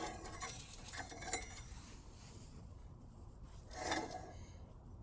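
A few light metallic clinks and scrapes as the bike's disc brake caliper is handled and set in place, the loudest near four seconds with a short ring.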